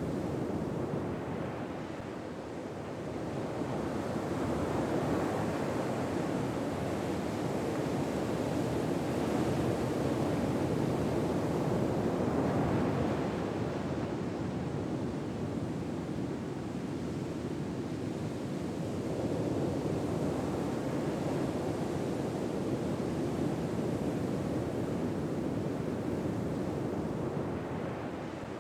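Ocean surf ambience: waves washing in and drawing back, the rush rising and falling in long, slow swells several seconds apart.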